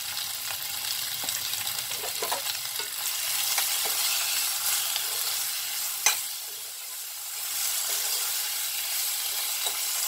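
Potato cubes and tomato pieces sizzling in hot oil in a kadhai while a spatula stirs them through, with a sharp knock of the spatula on the pan about six seconds in.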